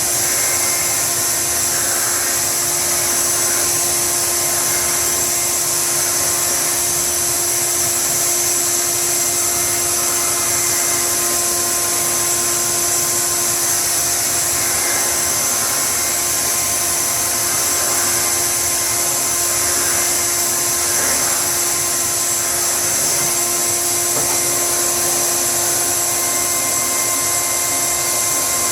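Electric blower motor running steadily, a constant whine over a rush of air that does not change.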